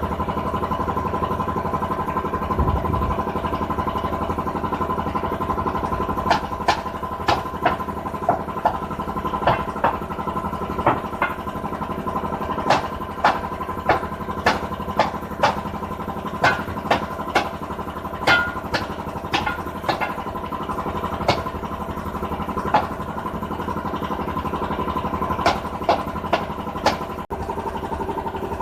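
An engine running steadily, with a string of sharp knocks from about six seconds in until near the end, roughly one or two a second at uneven spacing, typical of hammer blows during tire work.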